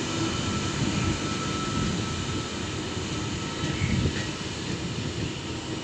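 A double-deck V set electric train running past, with a steady rumble of wheels on rail and a faint thin whine above it. The sound slowly dies down as the train moves away.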